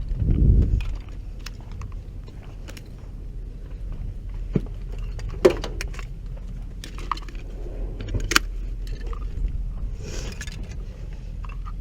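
Scattered clicks and metallic clinks, a few sharper than the rest, over a steady low hum.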